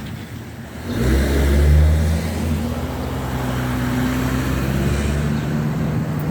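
Another vehicle's engine running as it drives slowly past, coming in loud about a second in with a slight rise in pitch, then holding steady.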